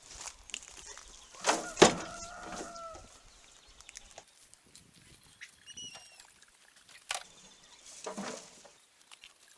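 Chickens in a run: a loud drawn-out hen call a little under two seconds in, then softer calls and a few sharp knocks.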